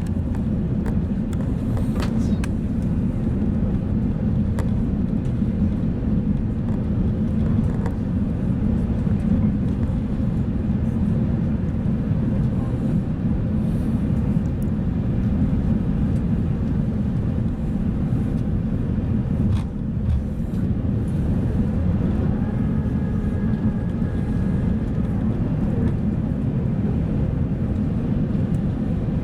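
Steady low rumble of an Airbus A380 in flight, heard inside the passenger cabin: engine and airflow noise during the descent.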